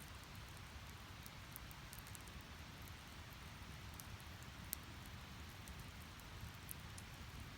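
Split firewood burning in a Snow Peak Takibi-dai S fire pit, crackling quietly: a steady low hiss with scattered sharp pops, the loudest a little past halfway.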